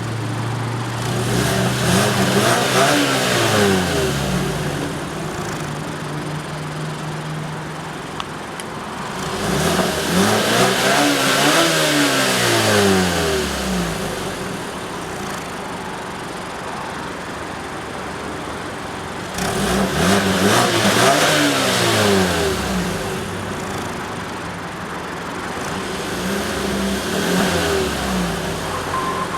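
2015 Mazda CX-5's four-cylinder engine being revved from idle four times, each rev rising and falling back smoothly, the last one lighter. It settles back to a steady idle between revs, and is free-revving and smooth.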